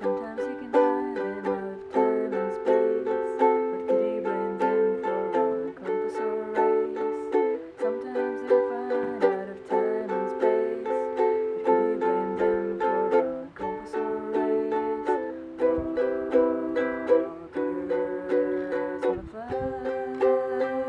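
Acoustic plucked-string instrument strumming chords in a steady rhythm, the chord changing every couple of seconds, in an instrumental passage of a song.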